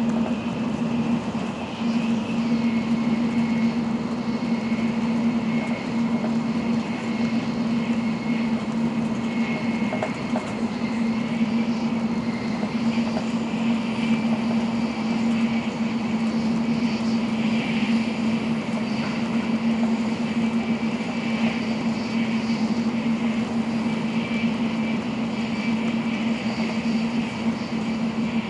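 N700-series Shinkansen running steadily, heard inside the passenger cabin: an even rumble of running noise with a low steady hum and a faint high whine.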